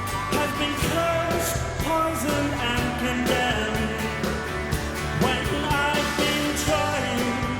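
Live rock band playing, with a steady drumbeat under melodic instrument lines.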